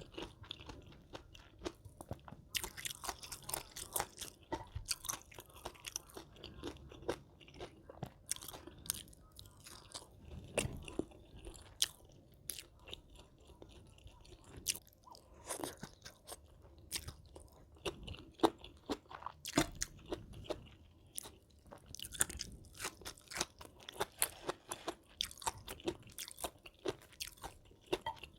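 A person chewing and crunching food close to the microphone, with irregular crisp crunches and wet mouth sounds.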